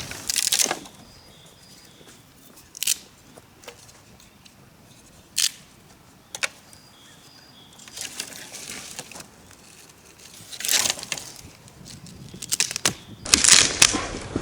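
Dead branches being broken for firewood: several sharp separate cracks and snaps a few seconds apart, with rustling of dry wood and brush between them. The wood is dry but tough and springy, so it resists snapping.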